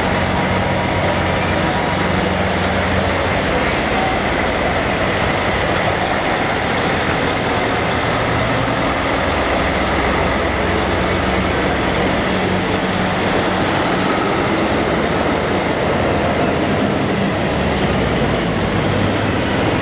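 Heavy trucks' diesel engines running as they pass one after another, a steady loud rumble whose low engine notes shift as each truck goes by.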